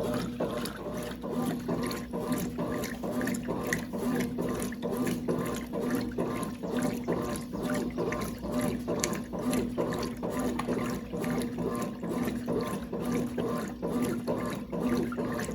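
Brastemp Clean 5 kg top-loading washing machine running with water in the tub: water sloshing in a quick, even run of splashes over a steady motor hum.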